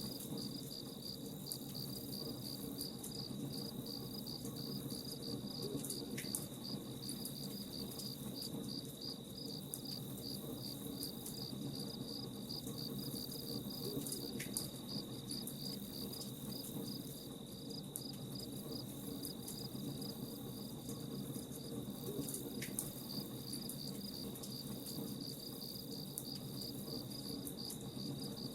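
Crickets chirping in a steady, even pulse over the crackle and low rumble of a campfire.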